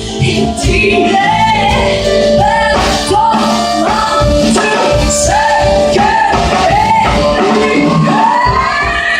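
Live band playing a song with a singer carrying the melody in short rising-and-falling phrases over held chords and a steady low beat.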